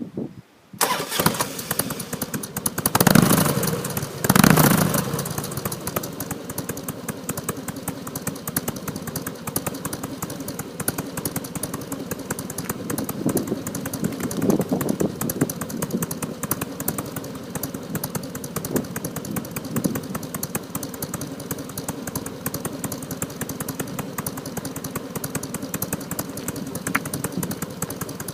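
Carbureted Harley-Davidson V-twin with US-spec baloney-cut mufflers, baffles punched out to 20 mm, starting up about a second in. It is revved twice soon after, then settles into a steady, deep idle.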